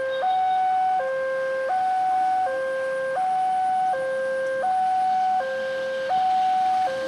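Railroad level crossing warning alarm sounding: a steady electronic two-tone signal switching back and forth between a lower and a higher tone about every three-quarters of a second, the signal that a train is approaching the crossing.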